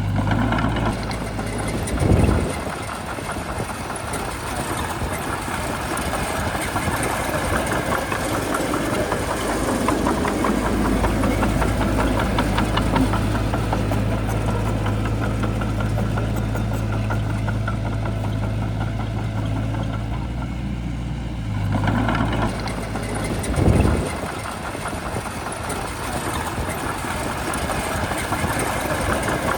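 Shantui bulldozer's diesel engine running steadily, with its low drone growing heavier for a stretch in the middle. Two short low thumps, about two seconds in and again near the end.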